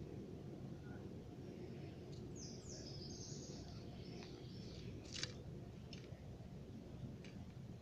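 A small bird chirps a quick run of high notes about two seconds in, over steady low outdoor background noise. A single sharp click comes about five seconds in, with a couple of fainter ticks after it.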